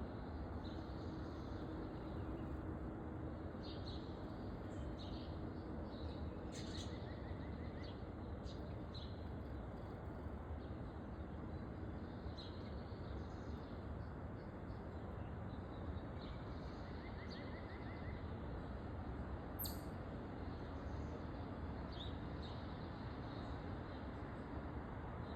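Wild songbirds at a backyard feeder giving scattered short chirps and calls, with two brief rapid trills and one sharp high call sweeping downward later on, over a steady low background rumble.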